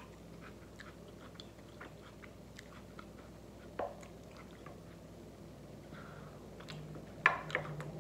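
Close-up chewing of a mouthful of loaded taco fries, with many small wet mouth clicks. A sharper click stands out a little after seven seconds, as the fork works at the plate for the next bite.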